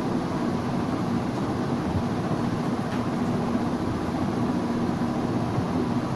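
A steady mechanical hum with a constant low tone under a wash of noise, like a fan or machine running.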